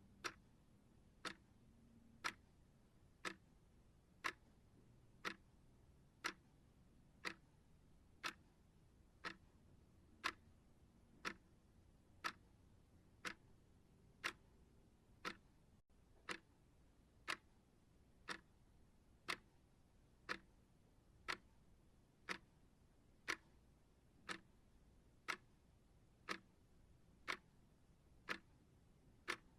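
Clock ticking steadily, one sharp, even tick every second, with near silence between the ticks.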